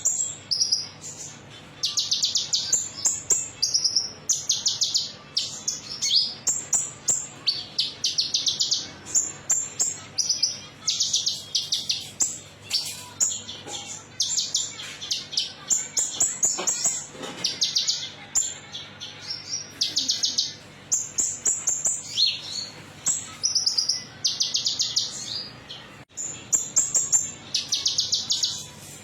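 A small songbird, the bird kept as a konin, singing a high-pitched song of rapid trills in short bursts, one after another with brief gaps, a lure recording meant to set caged birds of its kind singing.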